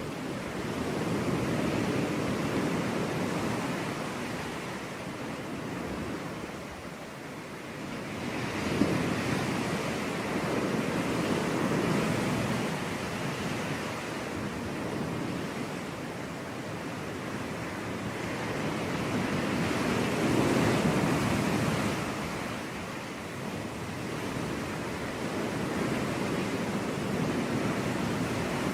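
Sea waves breaking and washing up a beach, the surf swelling and falling back in slow, irregular surges every few seconds.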